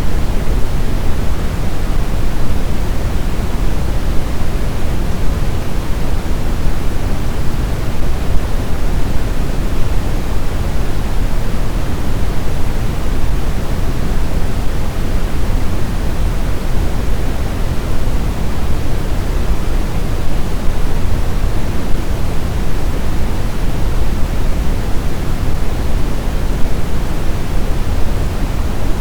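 Steady blizzard wind: a dense, even rush of noise, heaviest in the low rumble, with no gusts, swells or whistling tones.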